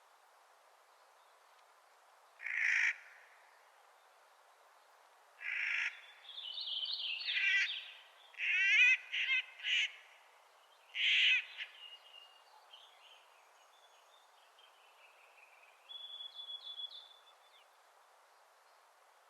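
Clark's nutcracker calling with harsh, grating calls: one call about two seconds in, then a run of loud calls and rattling notes from about five to twelve seconds in, followed by fainter, higher chattering notes near the end.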